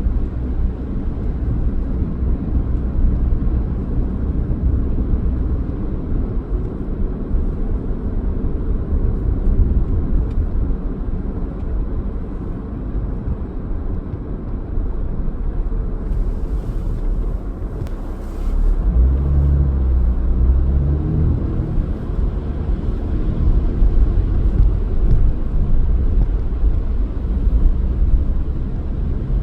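Car driving, with a steady low rumble of engine and road noise; the rumble grows louder about two-thirds of the way through. A few faint clicks come just before it.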